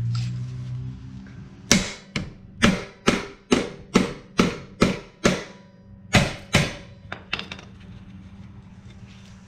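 Hammer blows during a repair: about eleven sharp strikes at roughly two a second, with a short pause before the last two, then a couple of lighter taps.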